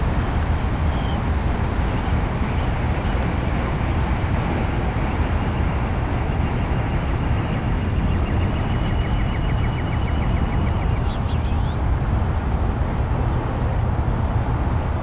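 Steady low outdoor rumble with faint bird calls above it, among them a quick trill of evenly repeated notes about nine seconds in.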